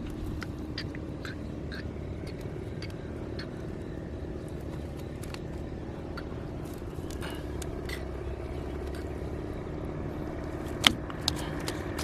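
A low, steady motor hum, with scattered light clicks and one sharp knock about eleven seconds in.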